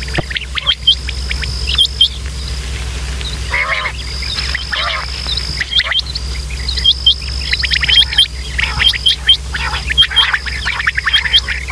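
Quail calling, many birds at once: a dense, overlapping stream of short, sharp, hooked notes. Underneath runs a high, steady insect-like trill that breaks off and resumes, and a low hum.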